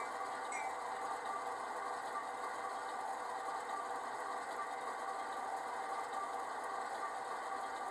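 Train moving on the rails with a steady mechanical rattle and hum.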